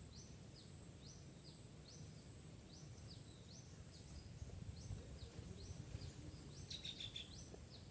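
Faint outdoor ambience: short high chirps repeating about twice a second over a steady high-pitched hum and a low rumble, with a slightly louder call about seven seconds in.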